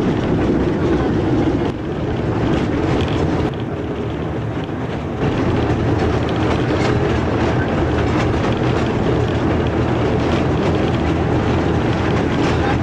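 Rack railway train running, heard from inside the carriage: a steady rumble of wheels and running gear on the track. It runs a little quieter for a few seconds about two seconds in.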